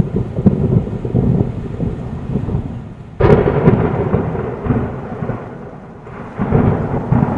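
Thunder rolling and rumbling in a thunderstorm with rain, with a sudden sharp clap about three seconds in and another swell of rumble near the end.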